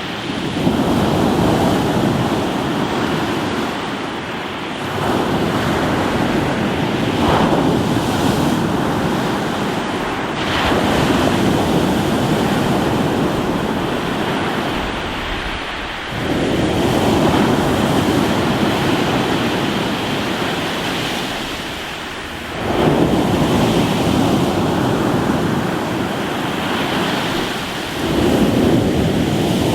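Surf breaking on a rocky shore: waves surge in and wash back in a steady rhythm, a fresh swell about every five to six seconds.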